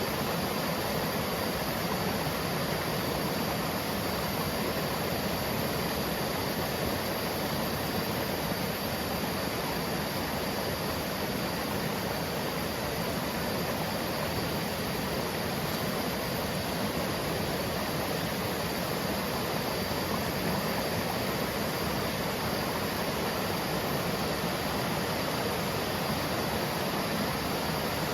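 Waterfall water rushing and splashing in a steady, unchanging roar of noise.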